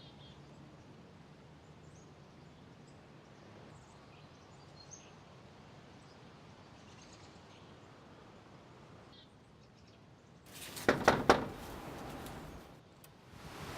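Quiet outdoor ambience with a few faint bird chirps, then a cluster of sharp thumps about eleven seconds in, followed by rising rustling noise near the end.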